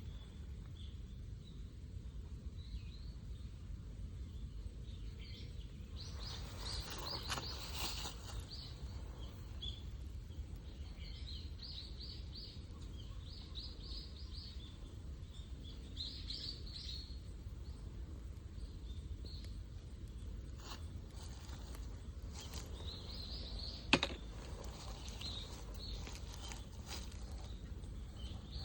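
Small birds chirping on and off over a steady low background rumble. A rustling noise comes a few seconds in, and a single sharp snap or click near the end is the loudest sound.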